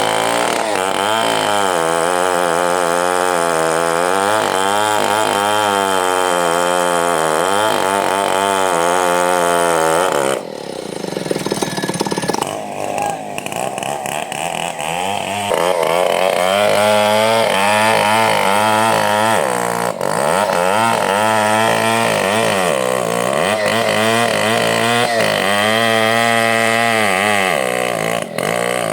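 Two-stroke chainsaw running at high revs, its pitch wavering up and down as it works. About ten seconds in it drops off and winds down to a lower, quieter speed for a few seconds, then revs up and runs hard again.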